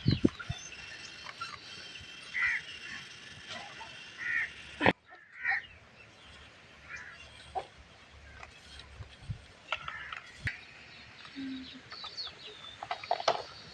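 A few short, scattered bird calls over background noise, with a brief dropout about five seconds in.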